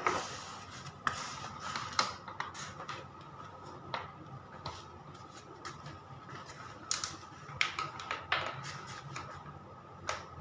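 Hand tools from a toolset being handled, with scattered sharp clicks and light knocks as they are picked up and set down.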